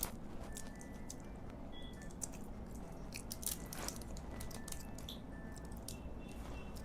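Chewing of soft, wet food, with scattered short smacking and squishing clicks from the mouth.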